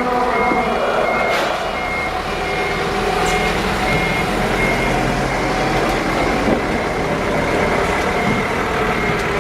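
A vehicle's reversing alarm beeping steadily, about one and a half high beeps a second, growing fainter in the second half, over a steady din of engines and machinery.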